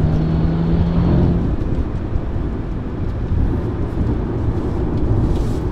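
Maserati Ghibli Hybrid's 2.0-litre turbocharged four-cylinder engine running under hard acceleration in manual mode, heard from inside the cabin with road and tyre noise. A steady low hum stops about a second and a half in.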